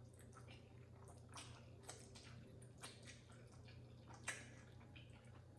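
Faint eating sounds: someone chewing black bean noodles, with scattered small wet smacks and clicks, the most distinct about four seconds in, over a low steady hum.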